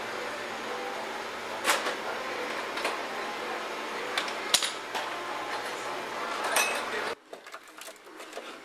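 Steady hum with scattered sharp knocks and clicks; the hum cuts off abruptly about seven seconds in.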